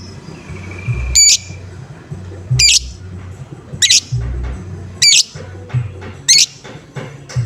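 Lovebird giving its repeated 'ngoek-ngoek' call, five short calls about every second and a quarter, over background music with a low beat.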